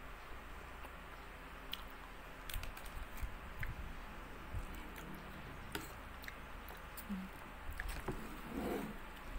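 Close-up eating sounds: a person chewing instant ramen noodles, with scattered light clicks of a metal fork on the plate.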